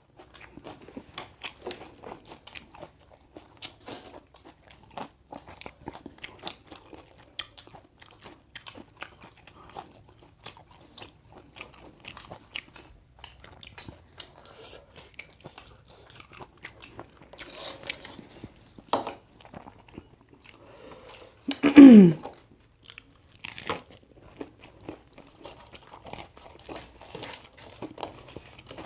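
Person biting and chewing crunchy food, with irregular crunching and mouth sounds. About three quarters of the way through there is one loud, brief vocal sound that falls in pitch.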